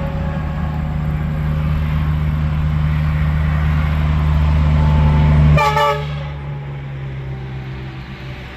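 Semi truck passing close on the interstate: its engine and tyre noise swells for about five seconds. A short horn toot sounds as it goes by, then the noise falls away.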